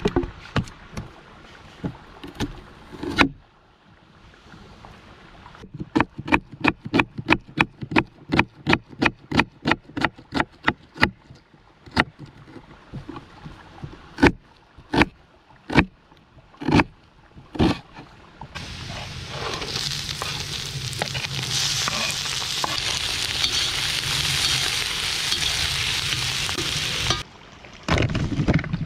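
Outdoor cooking sounds: a fast, even run of sharp knocks, about four a second, like a knife chopping on a board, then a few single knocks. About two-thirds of the way in, a steady loud hiss starts and runs for some eight seconds before cutting off suddenly.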